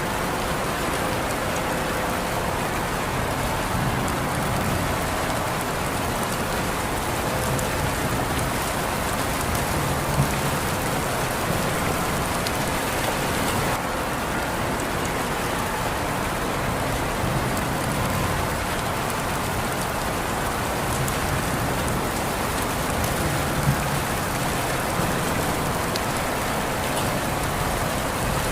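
Steady rain falling, a dense even patter of drops on surfaces, with a few louder single drops standing out now and then.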